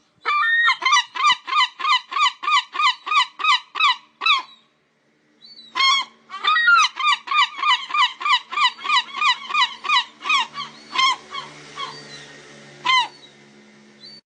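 Herring gull giving its long call: two rapid runs of loud calls, about three to four notes a second, each note falling in pitch. The runs are separated by a short pause about four seconds in, and a few scattered calls follow near the end.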